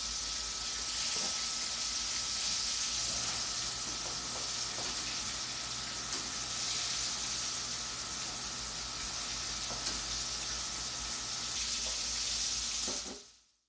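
Chicken nuggets shallow-frying in hot oil in a wok, a steady sizzle, with a few light clicks of metal tongs in the pan as the pieces are turned. The sizzle fades out near the end.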